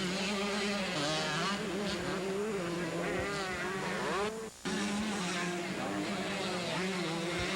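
Several 125cc two-stroke motocross bikes racing, their engines revving up and down in a buzzing, overlapping whine. The sound drops out briefly about four and a half seconds in.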